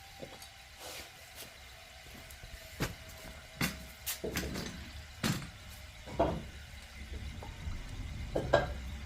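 Irregular knocks and clacks at uneven spacing, a second or so apart, over a low rumble; the sharpest knock comes near the end.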